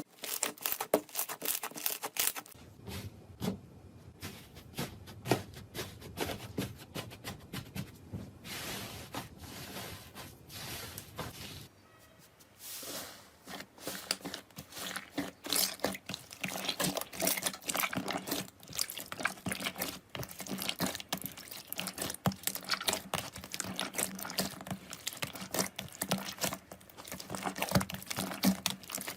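Slime being squeezed, poked and stretched by hand: a dense run of small wet crackles, pops and clicks. The texture changes a few times, with a brief lull about twelve seconds in.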